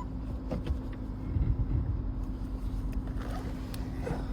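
Lexus LS460's V8 engine running at idle, a steady low rumble with a few soft low knocks about a second and a half in.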